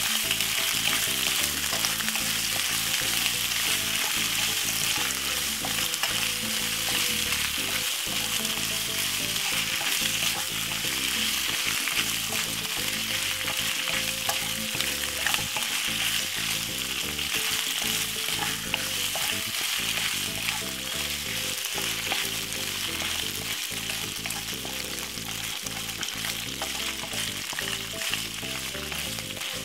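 Cooked penne pasta sizzling steadily as it fries in oil in a nonstick pan. A wooden spoon scrapes and clicks against the pan as it is stirred.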